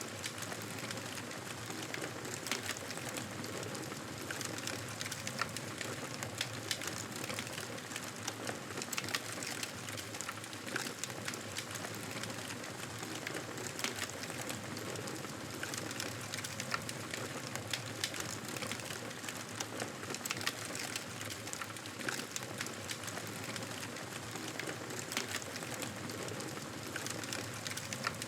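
Campfire burning, a steady hiss with frequent sharp crackles and pops at irregular intervals.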